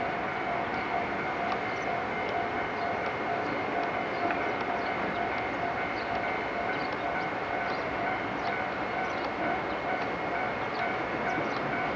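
A train at the station running steadily, a constant drone with two held tones and no rise or fall.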